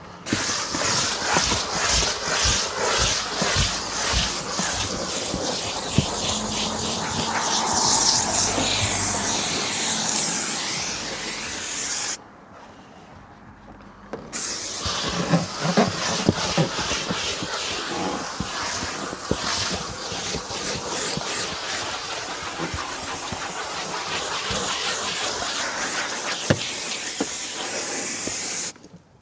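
Steam cleaner jetting with a loud, steady hiss that pulses as the trigger is worked. It stops about twelve seconds in and starts again two seconds later.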